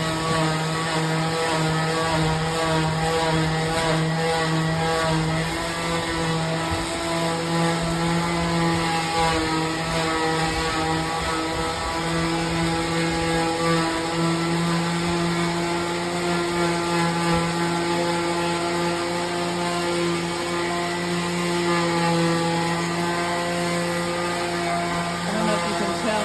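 Electric palm sander running steadily against the log wall, a constant motor hum whose pitch shifts slightly now and then.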